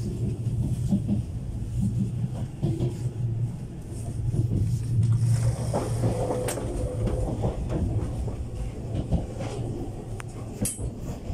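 Double-decker electric commuter train running, heard from inside the carriage: a steady low rumble with scattered light clicks and knocks.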